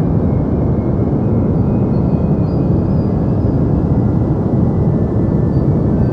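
Deep white noise for sleep: a steady, even rushing rumble weighted to the low end, with no changes.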